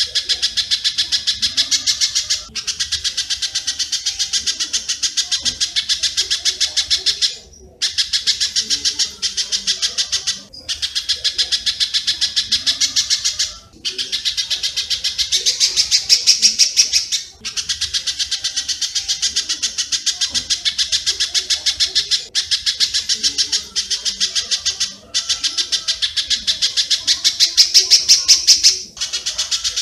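Recorded calls of a spiderhunter and a swiftlet: a fast run of sharp chirps, about ten a second. The chirps come in phrases of a few seconds, each ended by a short break.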